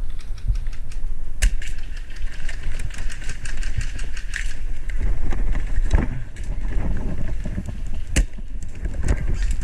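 Airsoft gunfire: rapid runs of sharp clicks and snaps, densest a second or two in and lasting a few seconds, with one louder single crack near the end, over a steady rumble of wind and handling noise on a body-worn microphone.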